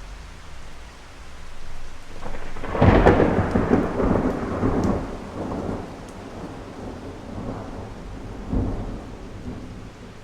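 Thunder in a hailstorm. A swelling crack about three seconds in rolls on and fades over the next few seconds, and a shorter clap comes near the end, with rain falling steadily throughout.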